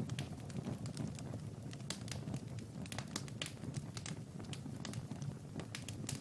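Wood fire crackling in a fireplace: many irregular sharp pops and snaps over a low steady rumble of the flames.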